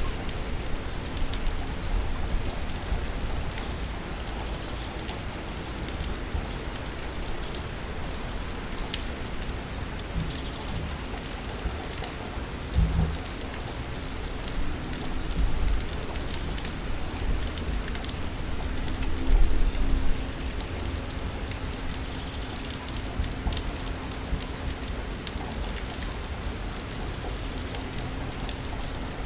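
Steady city rain with many scattered drips ticking on surfaces over a low rumble. The rumble swells briefly a few times, most strongly about two-thirds of the way through.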